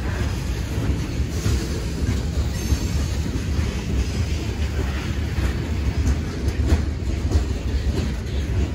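Freight train's open-top gondola cars rolling past close by: a steady low rumble of steel wheels on rail, with a few sharp clicks.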